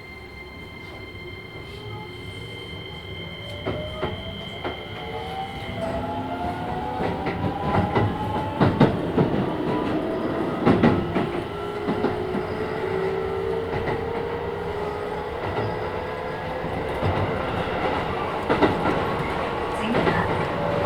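Keisei 3000 series electric train heard from inside the car as it pulls away and gathers speed. The whine of the Toyo IGBT-VVVF inverter drive climbs steadily in pitch, and wheel clicks over the rail joints join in as the speed builds. A steady high tone runs at the start and stops about six seconds in.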